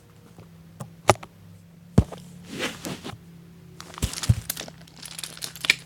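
Handling noise: a handful of sharp knocks and clicks with rustling in between.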